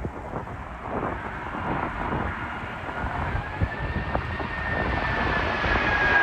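Emirates Airbus A380's jet engines on approach, growing louder, with a high whine that appears about halfway in and slowly drops in pitch. Gusty wind buffets the microphone underneath.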